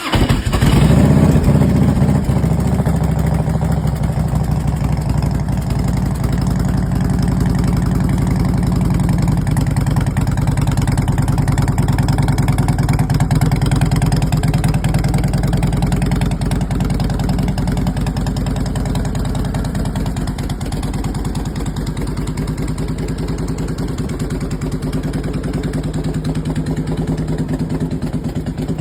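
Harley-Davidson Road King V-twin engine catching right at the start, loudest for the first second or two, then settling into a steady idle.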